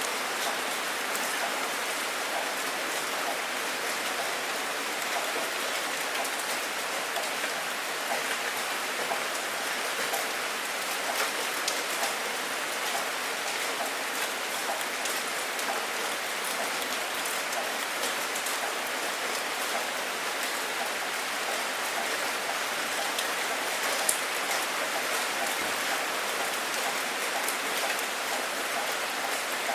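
Steady rain falling, with many fine drop ticks over an even hiss at a constant level.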